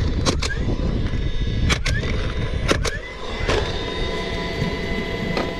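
Several sharp knocks, mostly in quick pairs, over a steady low rumble.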